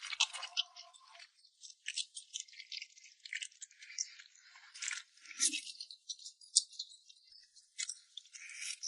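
Close-miked eating sounds from a bowl of chili-oil mixed rice noodles: an irregular run of crisp clicks and crackles.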